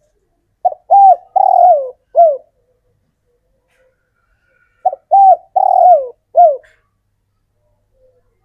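Male spotted dove cooing: two song phrases of four notes each, a short note, two longer ones and a closing note, the second phrase starting about four seconds after the first.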